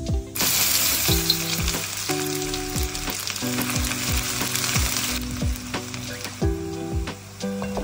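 Chopped onions dropped into hot oil in a wok, sizzling loudly at once. The sizzle eases off after about five seconds into a quieter frying.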